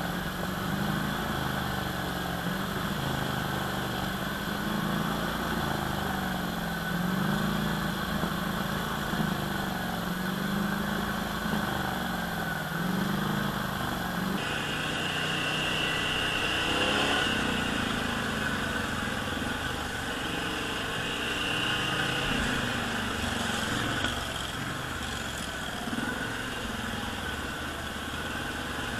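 ATV engine running while being ridden along a trail, its speed rising and falling slowly. About halfway through the sound changes abruptly and a higher whine comes in.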